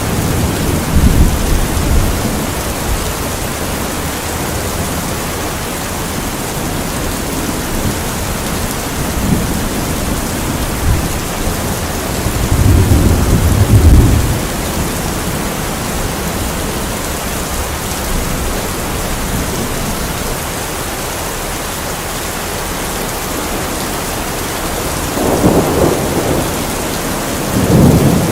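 Steady, heavy rain with low rolls of thunder: a rumble near the start, the loudest about halfway through, and two more near the end.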